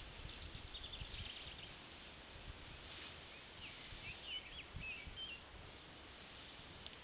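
A small songbird calling in two short phrases of quick, high chirps, one about a second in and a longer one in the middle, over faint steady outdoor noise with scattered low thumps.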